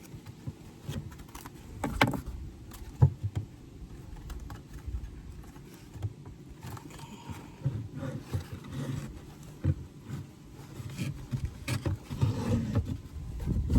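Wooden hive frames and parts of a Layens bee hive being handled: scattered knocks and clicks, the sharpest about two and three seconds in, with rustling and scraping between.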